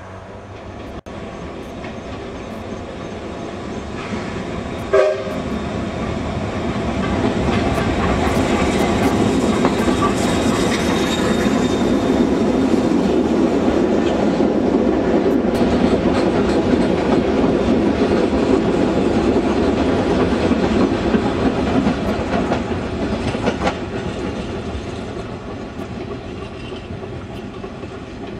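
Heritage train with wooden carriages passing, wheels clattering over the rail joints, with a short toot about five seconds in. The rumble builds, stays loud through the middle and fades near the end as the train moves off.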